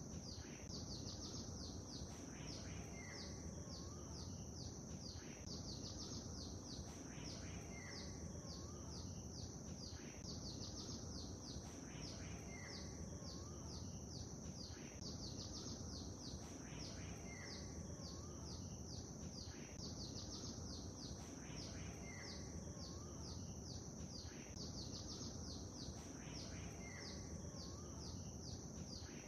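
Lakeside ambience: small birds chirping in quick repeated notes over a steady low wash of water-like noise and a constant high hiss. The chirps recur in the same pattern about every two seconds.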